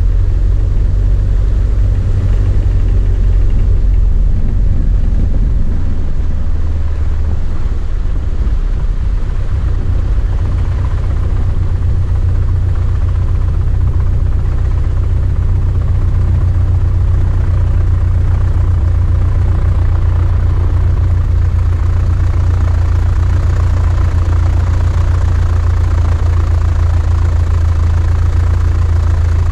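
Small plane's engine and propeller running steadily, a continuous low drone.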